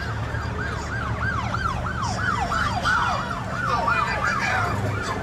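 Electronic siren sounding a fast yelp, its pitch sweeping up and down about three times a second, over a steady low hum.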